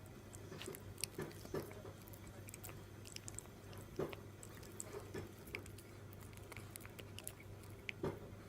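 Shiba Inu puppy gnawing on a dog chew: irregular small crunches and clicks of teeth on the chew, over a steady low hum.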